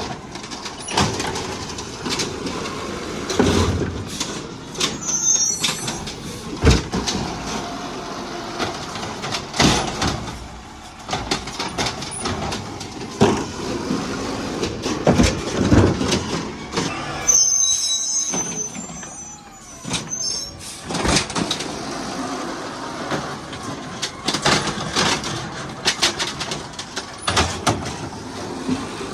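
Garbage truck at work: engine running under many sharp clanks and knocks of metal. A brief high-pitched squeal comes about seventeen seconds in.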